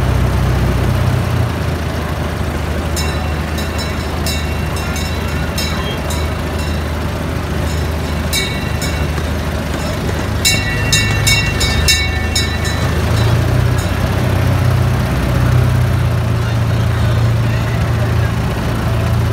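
Small amusement-park train's engine running with a steady low hum. Between about 3 and 13 seconds in come four bursts of quick, ringing metallic strikes.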